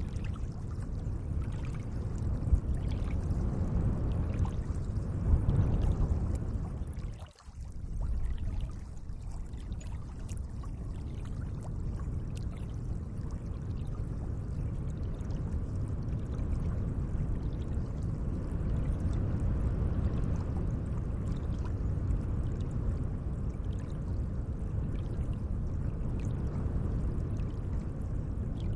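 Gentle lake water moving steadily, a continuous low wash of water with faint small splashes, dropping out sharply for a moment about seven seconds in.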